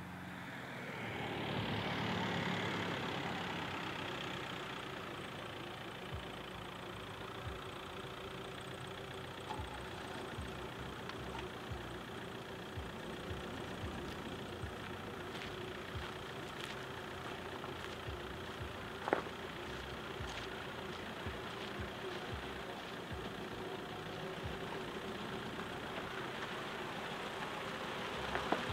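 Car engine idling steadily, with a faint regular low knock. A vehicle passes about two seconds in, and the sound rises again near the end as another car pulls up.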